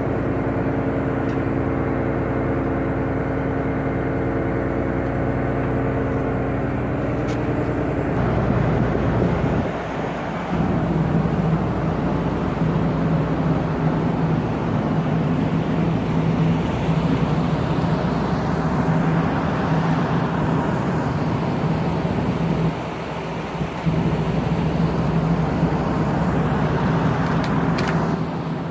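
Steady, loud machinery drone with a low held hum, changing character about eight seconds in and briefly dropping away twice.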